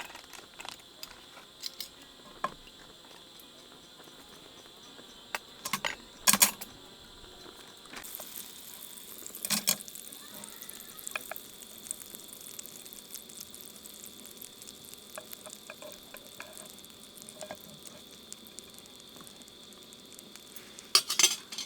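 Food sizzling and crackling in a frying pan, the sizzle picking up about a third of the way in, with a few sharp knocks and clinks of utensils against the pan.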